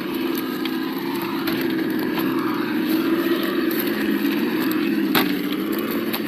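The sound module of an Absima Yucatan 1:8 RC crawler plays a simulated engine note through its small speaker, its pitch dipping a little mid-way and rising again with the throttle. Scattered clicks and knocks run through it, the loudest about five seconds in.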